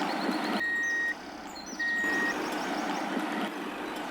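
A vehicle's reversing alarm sounding two steady half-second beeps about a second apart, over a continuous engine-like hum and noise that grows louder and quieter in steps.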